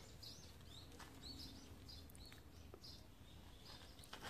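Faint background bird chirping: short, high chirps repeating about twice a second, over quiet outdoor hush.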